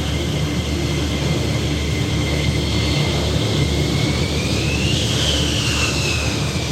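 F-16 fighter jet engine noise, steady and dense, with a high whine that rises in pitch around five seconds in and then falls away.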